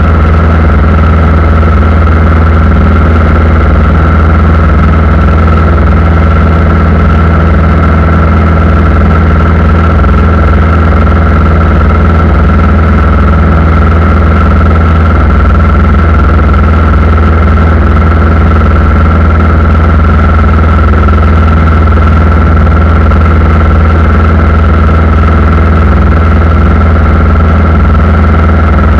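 Aircraft engine running steadily, a loud constant drone with a steady high tone above it and no change in pitch.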